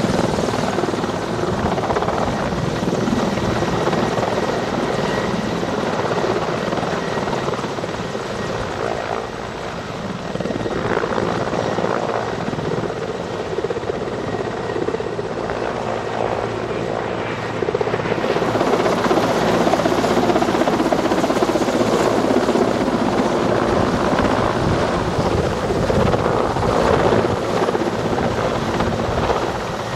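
Military helicopter in flight, its rotor and turbine engines running with a steady, dense noise that grows louder about two-thirds of the way through.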